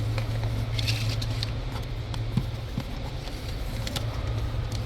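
Faint clicks, taps and rustles of hands working a wiring harness and rubber grommet in a cramped engine bay, over a steady low hum.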